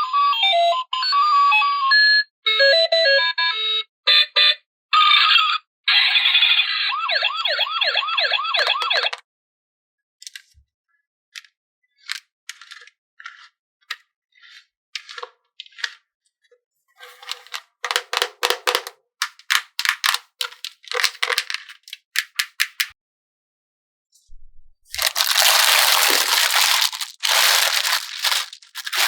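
Electronic toy sound effects, beeping and chiming tones that end in a run of warbling, siren-like tones, stop about nine seconds in. Scattered clicks and light handling of plastic parts follow, then loud crinkling of plastic packaging near the end.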